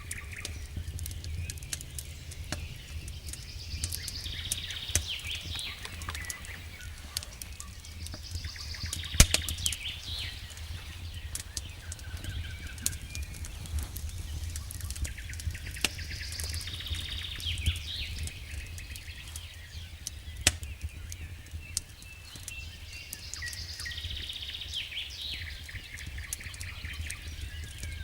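Wood fire crackling in a fireplace, with scattered sharp pops, two louder ones about nine and twenty seconds in, over a low steady rumble.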